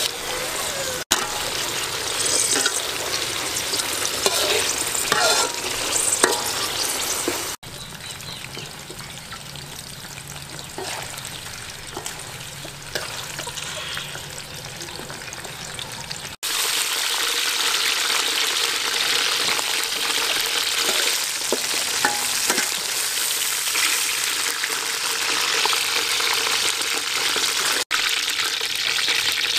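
Spiders and herbs sizzling in hot oil in a metal wok, stirred and scraped with a metal slotted spatula. The loudness steps down for several seconds in the middle, then comes back up.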